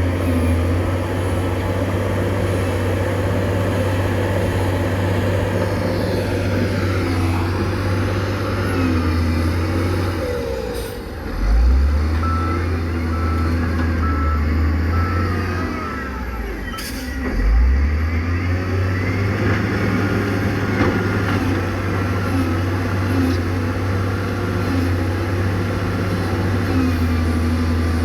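Diesel engine of heavy earthmoving machinery running steadily under load, with two short loud surges where the engine note drops and rises again. A run of evenly spaced high beeps, like a reversing alarm, sounds in the middle.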